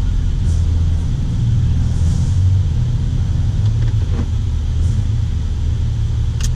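HSV Clubsport's supercharged 6.2-litre LSA V8 idling, a steady low rumble heard from inside the cabin, with a sharp click near the end.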